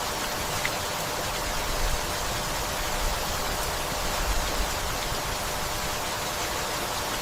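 Steady, gentle rain falling, an even hiss of rainfall.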